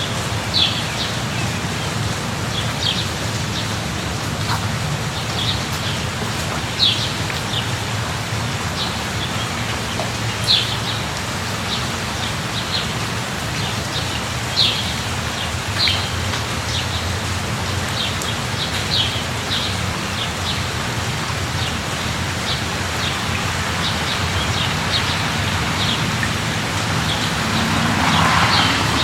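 Steady rain falling, a continuous even hiss, with a bird giving short high chirps every second or two. The rain's hiss swells briefly near the end.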